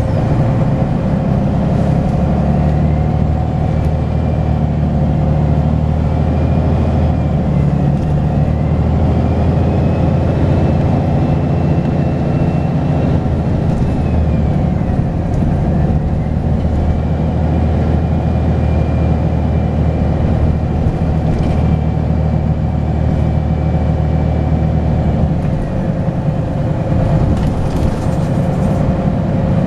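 Volvo B10BLE bus's six-cylinder diesel engine running under load, with a high turbocharger whistle that rises and falls with engine speed. The whistle dips about halfway through, climbs back and holds, then fades out a few seconds before the end as the engine eases off.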